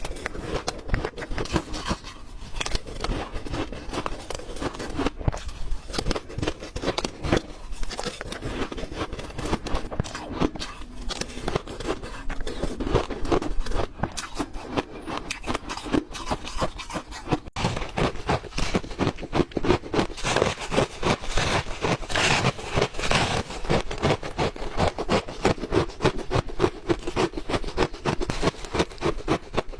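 A person chewing and crunching ice close to the microphone: a dense, unbroken run of sharp crunches, several a second, growing louder and brighter about two-thirds of the way through.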